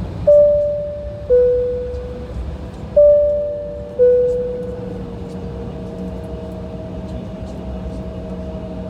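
Airliner cabin chime in an Embraer E175 sounding two high-low 'ding-dong' pairs about three seconds apart, each tone fading away, over the steady low hum of the cabin.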